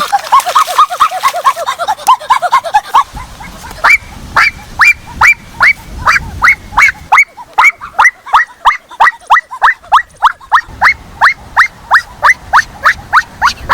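Goose calling over and over in a long series of short honks, each rising sharply in pitch. For the first few seconds the honks are quicker and lower; from about four seconds in they are higher and about three a second.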